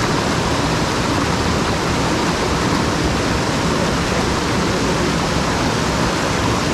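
Steady rushing of a fast mountain stream, a continuous even roar of water over rocks.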